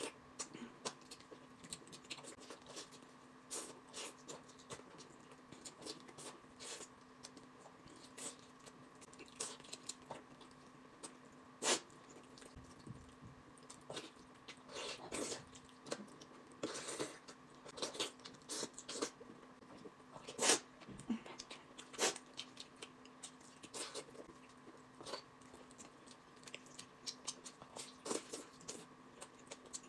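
A person biting and chewing braised pork close to the microphone: quiet, scattered mouth clicks and wet lip smacks, a few louder bites about twelve, twenty and twenty-two seconds in, over a faint steady hum.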